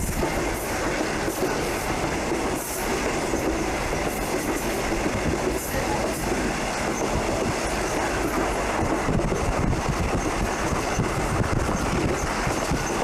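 Passenger train running on the Tamsui line: a steady rumble of wheels on track, with irregular clicks as the wheels pass over rail joints.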